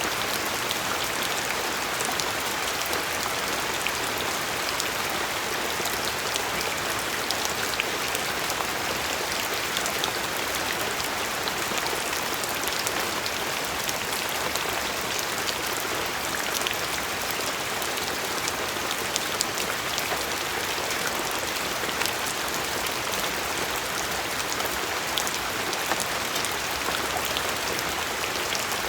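Steady rain falling, with many individual drops pattering on a surface over an even hiss.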